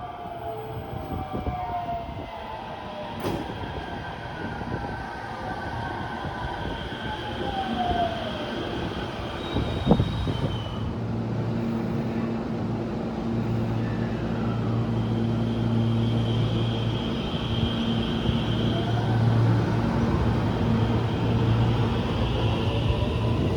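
Electric train at a station: the motor whine falls in pitch as the train slows, a sharp click comes about ten seconds in, then a steady low hum. Near the end the whine starts to rise again as the train pulls away.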